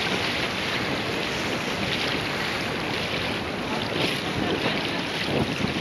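Wind buffeting the microphone on a small sailing boat under way, with water washing along the hull in gentle surges.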